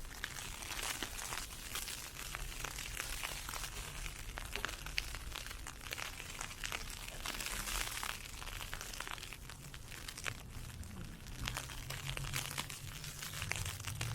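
Footsteps crunching through snow and ice pellets, with a dense crackle of small ticks over a steady hiss. A low hum comes in about ten seconds in.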